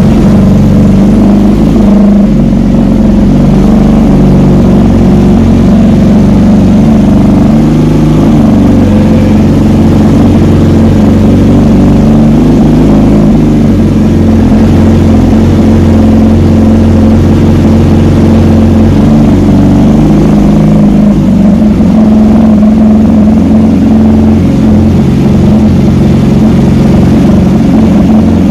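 600 cc inline-four supersport motorcycle engine and exhaust running loudly and steadily, the note shifting a little.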